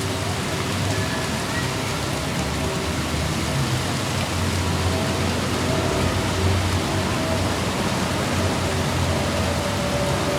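Steady hum of a moving car: an even rushing noise with a low rumble underneath and faint steady humming tones.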